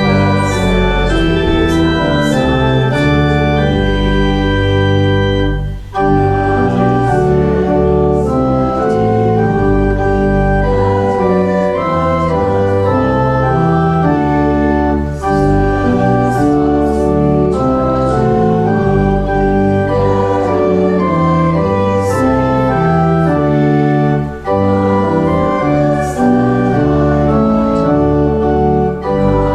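Church organ playing slow, sustained chords, with short breaks between phrases about 6 seconds and 24 seconds in.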